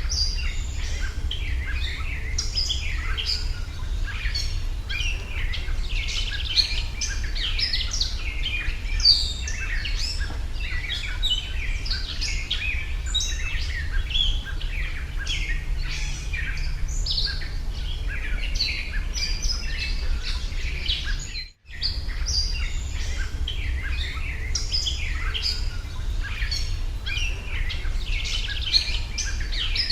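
A dense chorus of small birds chirping and twittering, over a steady low rumble. The sound drops out briefly about two-thirds of the way through.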